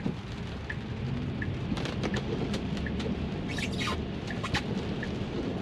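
Rain pattering on a car's glass roof over steady wet-road tyre noise, heard inside the cabin, with scattered short ticks and squeaks.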